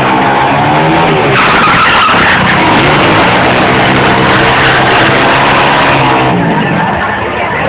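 Motorcycle engine revving hard at high rpm while its rear tyre spins and squeals in a burnout. The tyre noise rises about a second and a half in and drops away after about six seconds.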